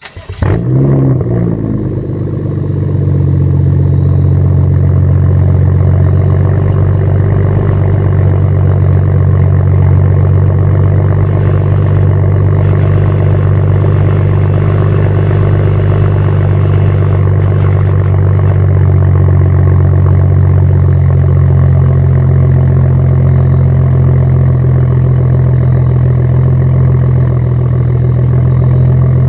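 BMW N55 turbocharged straight-six breathing through a Meisterschaft aftermarket exhaust, starting up with a brief rev flare and then settling into a steady, loud, deep idle.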